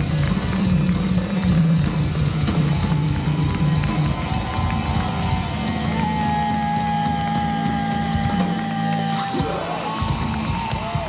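Live heavy metal band with drums and electric guitar playing the closing bars of a song, settling into one long held note and then a few swooping pitch bends as it winds down.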